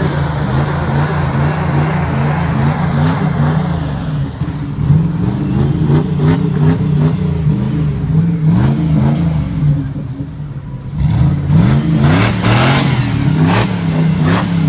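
Jeep Grand Cherokee's V8 on a Magnaflow exhaust revving up and down again and again as the 4x4 climbs onto and crushes a small car. A few sharp knocks near the end.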